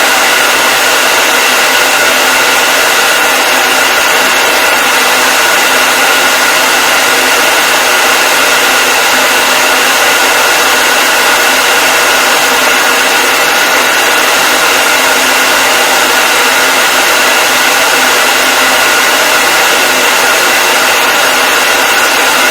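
Hair dryer running steadily: a constant loud rush of air with a steady high whine from the fan motor.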